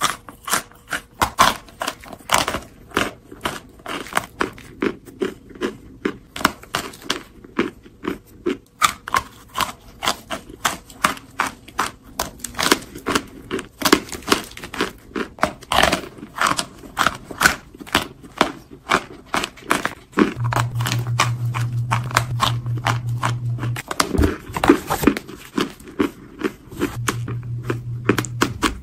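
Close-miked biting and chewing of hard cornstarch chunks: rapid, irregular crunchy, squeaky crackles. A steady low hum comes in twice in the second half.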